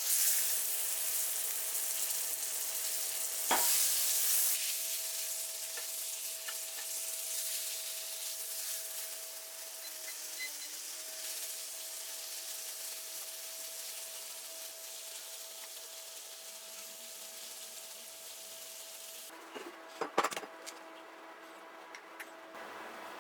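Cauliflower steak frying in a hot pan. The sizzle starts suddenly, flares up briefly a few seconds in, then slowly dies down. A few light clicks come near the end.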